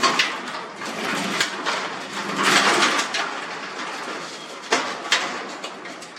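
Clicks, knocks and scraping of metal garage door hardware being handled during a roller swap, with a louder scraping stretch about halfway through and two sharp clicks near the end.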